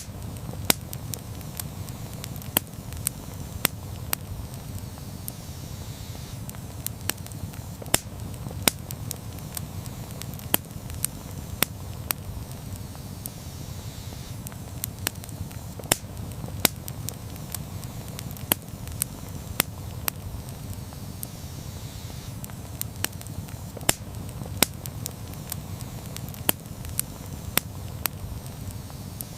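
Wood campfire crackling, with sharp pops one to three times a second over a steady low rumble of the flames.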